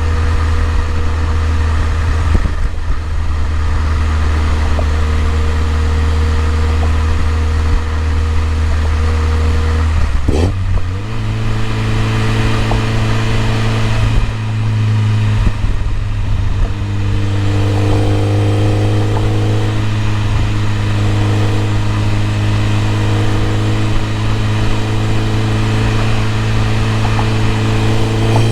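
BMW E30 M3's four-cylinder engine running steadily. About ten seconds in it gives a short rev, then holds steady at a slightly higher speed, and it begins to rise again at the very end.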